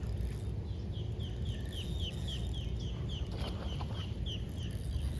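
A bird calling a rapid series of short, falling high notes, about three or four a second, beginning about a second in, over a steady low rumble.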